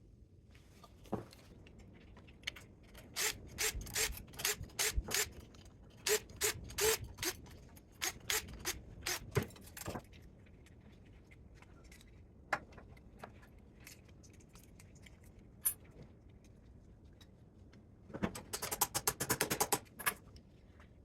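Hand tools working on the metal parts of a welder being torn down for scrap: a series of sharp scrapes and clicks, then a quick run of rapid clicks near the end.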